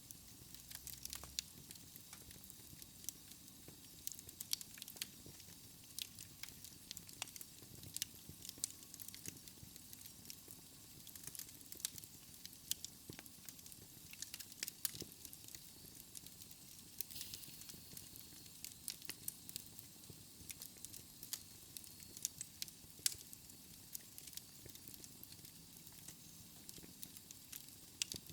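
Wood fire in a fireplace crackling, with irregular sharp pops and snaps over a soft steady hiss and low rumble of the flames. A faint high whistle sounds for a couple of seconds past the middle.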